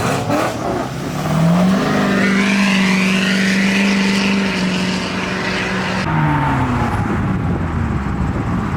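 A car engine revving up hard, holding a steady high note for about four seconds, then dropping in pitch as it eases off or passes.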